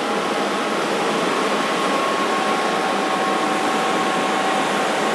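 Furnace running with a steady, even rushing noise and a faint steady whine over it.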